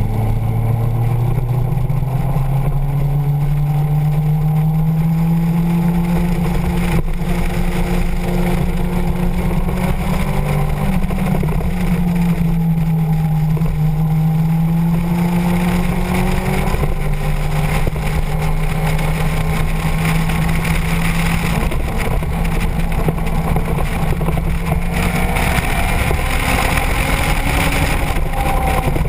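Motorcycle engine running at road speed. Its note rises as it accelerates over the first few seconds, then holds fairly steady with a brief dip in the middle. Wind rushing over the microphone grows louder near the end.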